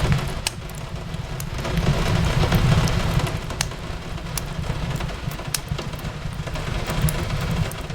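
Steady rain hiss with sharp pops and crackles of a wood fire scattered through it, about one or two a second, over a low rumble that swells and eases twice.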